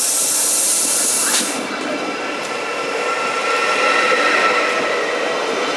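Stadler GTW diesel-electric railcar at a platform: a loud hiss of compressed air cuts off about one and a half seconds in. After that the engine and drive run on with a steady rumble and several whining tones as the train pulls away.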